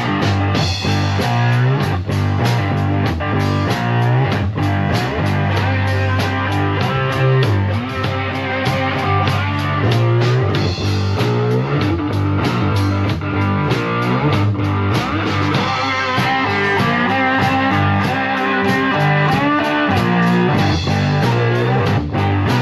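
Blues-rock band music without vocals: electric guitar over bass and drums, with a steady beat.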